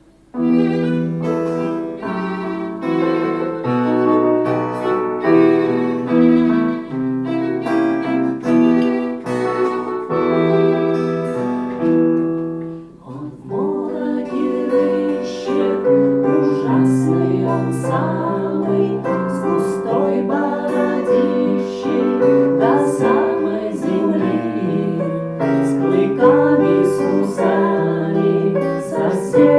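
Live instrumental music with sustained chords that change every second or so, dipping briefly about 13 s in before going on with a busier texture.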